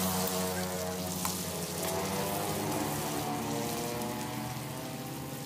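Shrimp sizzling in hot oil in a metal wok as a spatula turns them, over a steady humming tone.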